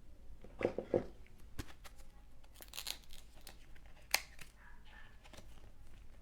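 Trading card packs and cards being handled: a few soft knocks near the start, a short crinkle of pack wrapper about three seconds in, and a sharp click just after four seconds.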